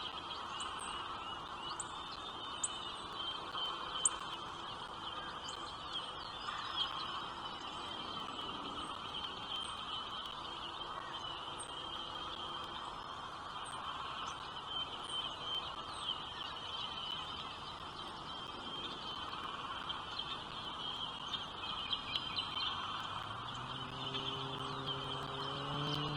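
Small birds giving short, high chirps every second or two over a steady high buzz. Near the end a low, steady droning tone begins.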